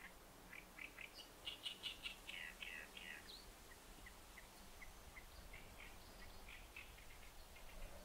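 Faint birdsong: small birds chirping, with a quick run of chirps about a second and a half in, then scattered single chirps.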